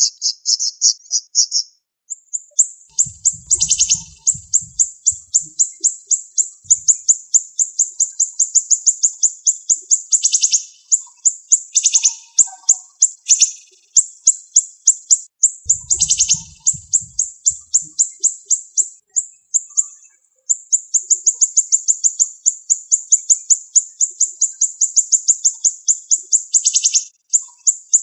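Siri-siri songbird singing long runs of rapid, closely spaced high notes, a fast sharp trill that breaks off only briefly once or twice.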